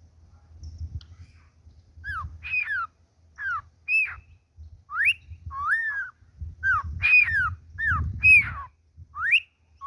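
Cockatiel whistling its song: a run of short whistled notes that swoop up and down in pitch, starting about two seconds in and continuing to the end.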